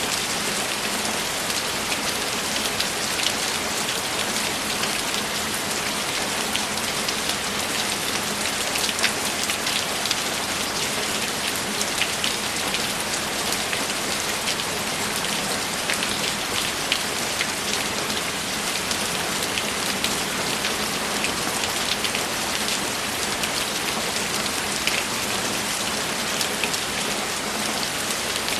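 Steady rainfall, a dense even hiss with many individual drops ticking on a surface.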